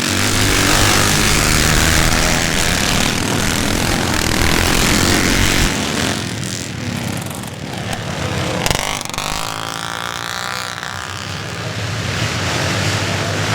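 A pack of classic and twinshock motocross bikes at full throttle, a dense mass of engine noise that eases about six seconds in. Near nine seconds a single closer bike's engine note sweeps up and down in pitch.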